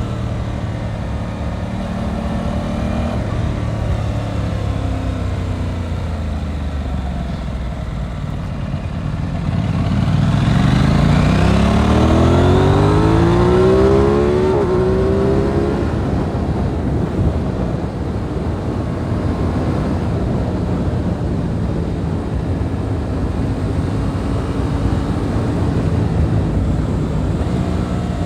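Aprilia RS 660's parallel-twin engine running at a steady cruise with wind rush. About ten seconds in it pulls hard under acceleration, the pitch rising for several seconds in the loudest stretch, then it settles back to steady running.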